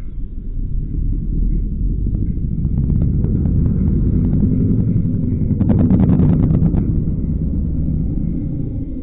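Car exhaust rumbling, building to its loudest about six seconds in, with a quick run of sharp crackles at the peak, then easing off.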